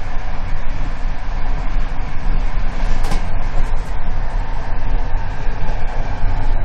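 Passenger coach running fast on the rails, heard from inside a compartment: a steady, loud rumble of wheels and carriage. About three seconds in there is one short, sharp noise.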